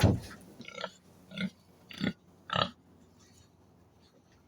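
A farm animal making about four short calls in the first three seconds, then falling quiet.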